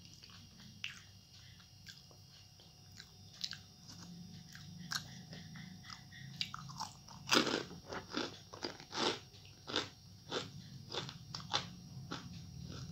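Close-up biting and crunching of crisp fried chips, soft chewing at first, then sharp loud crunches about two a second from about halfway through.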